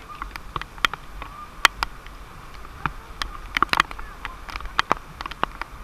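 Water drops falling in the rain: irregular sharp taps, two or three a second, over a low steady rumble.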